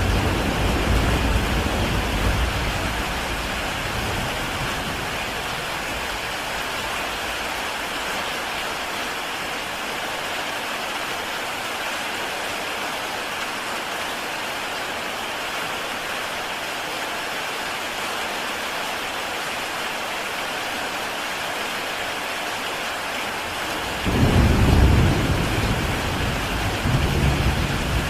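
Heavy rain falling steadily on a tile roof. Low rumbles of thunder come in the first few seconds and again near the end.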